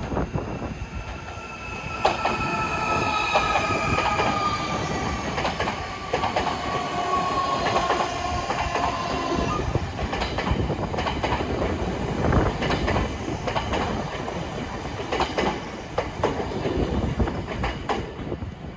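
Electric train running past on the rails. Its wheels clack over the rail joints, and a high whine falls slowly in pitch for several seconds in the first half.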